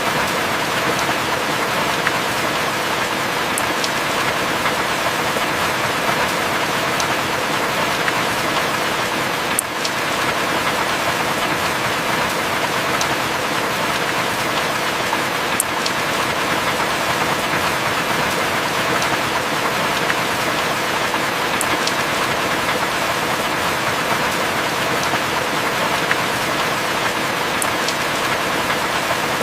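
Heavy rain falling steadily, an even hiss with no thunder, and a few sharp drip ticks now and then.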